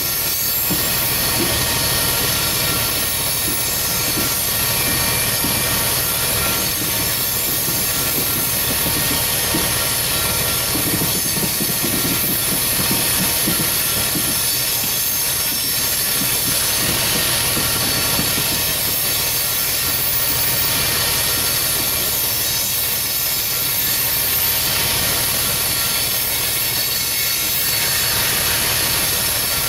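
Coal train's cars rolling along the rails: a steady rumble of wheels on track that holds unbroken throughout.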